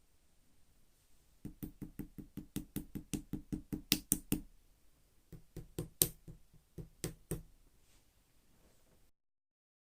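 Clear slime being pressed and poked with fingers, making quick sharp popping clicks, about six or seven a second, in two runs with a short pause between them. It goes silent near the end.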